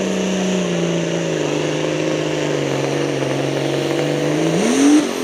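The engine of a pulling truck or tractor running hard under load during a pull, holding a steady pitch. Near the end it revs up sharply, then drops back.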